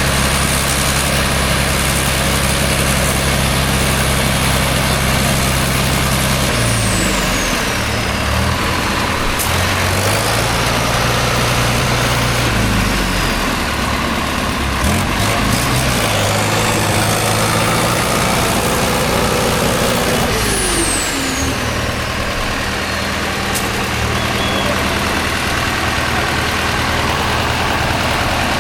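Heavy off-road competition truck's diesel engine idling, then revving up and down several times. A high whistle falls in pitch as the revs drop.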